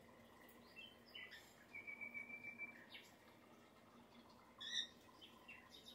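Pet birds chirping quietly: scattered short chirps, a held whistled note about two seconds in, and a louder short call near the end.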